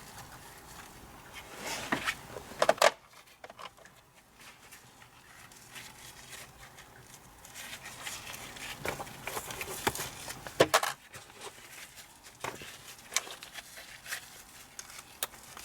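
Scattered clicks, knocks and rustling of hands handling and fitting plastic and metal parts around the steering column, with sharper clicks about two to three seconds in and around ten seconds in.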